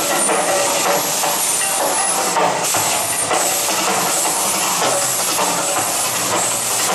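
Steady loud rushing of water from the volcano show's fountains and waterfall pouring into the pond.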